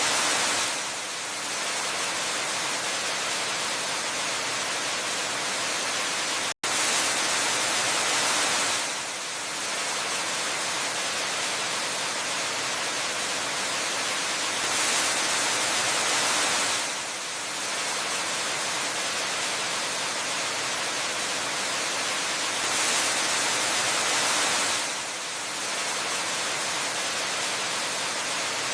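Waterfall, a steady hiss of falling water that swells a little louder for about two seconds roughly every eight seconds. A split-second dropout breaks it about a quarter of the way in.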